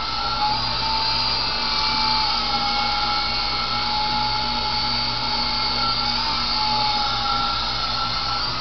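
Electric motors and rotor blades of a Sky Rover remote-control toy helicopter in flight, giving a steady high whine. Its pitch drifts slightly up and down as the throttle changes.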